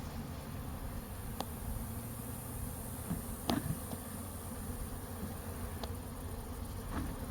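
Honey bees buzzing steadily around an open hive, with a few faint clicks.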